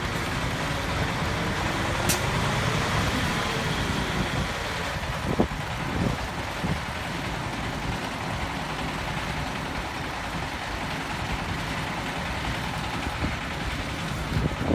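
Dump truck engine running steadily, with a sharp click about two seconds in and a few short knocks around five to six seconds.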